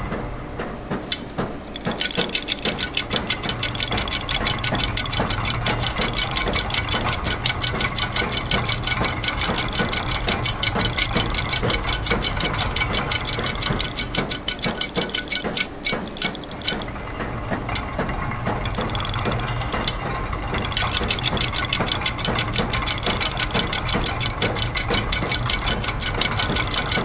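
Layered loops of factory machine sounds: rapid ratchet and gear clicking over a low mechanical hum, together forming a repeating rhythm. The high clicking drops out briefly near the start and again for a few seconds about two-thirds of the way through.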